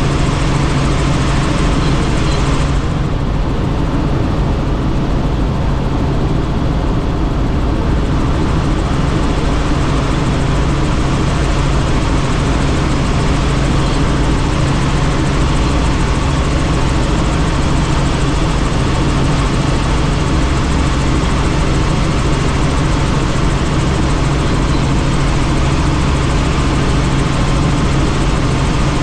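Helicopter engine and rotor running steadily, heard from inside an open-door cabin: a constant low drone with a broad rush of air over it. The hiss eases for a few seconds about three seconds in, then comes back.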